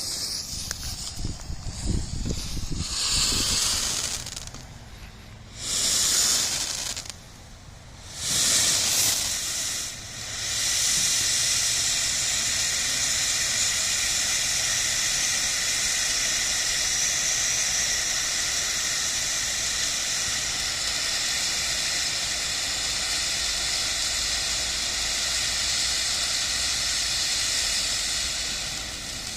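TNT Wizard Alley firework fountain spraying sparks: a few short hissing spurts in the first ten seconds, then a steady hiss that eases off near the end.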